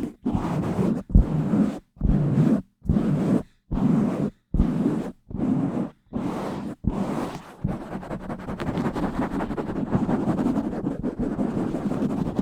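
Scratching directly on a bare microphone: short, fast strokes about one a second with brief silences between, turning about seven and a half seconds in to continuous rapid rubbing.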